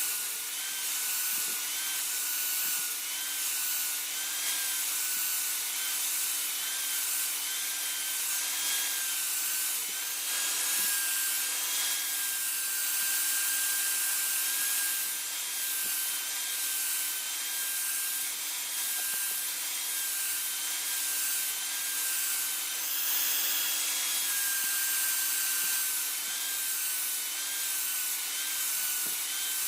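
Motor-driven grinder working a steel khukuri blade: a continuous abrasive hiss over a motor whine whose pitch wavers and dips as the blade is pressed on and eased off, with a steady low hum beneath.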